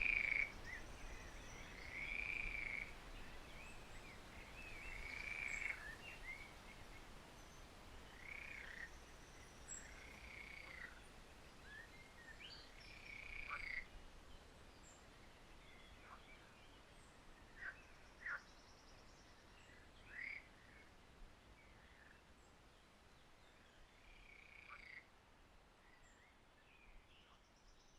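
Faint animal calls at a pond: short arched calls repeating about every one to two seconds, fading away in the second half, with a few brief sharp chirps later on.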